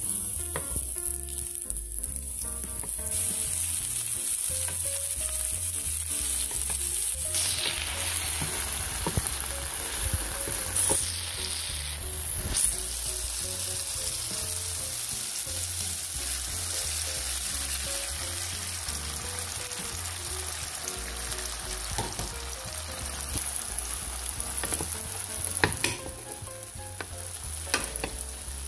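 Diced onions and tomatoes sizzling in oil in a frying pan as they sauté, with a utensil stirring and scraping now and then. The sizzle drops quieter a couple of seconds before the end, by which time beaten eggs are in the pan.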